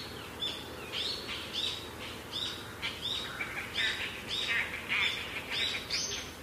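A bird chirping repeatedly, a quick even series of short, high chirps, two or three a second.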